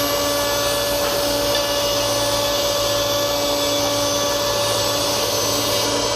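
Automatic edge banding machine running steadily. Its motors give a constant whine and hum that does not change in pitch.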